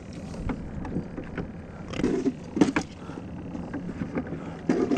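Water sloshing around a fishing kayak at sea, with a steady hiss of wind and water and a few short knocks against the hull, the clearest about two seconds in and near the end.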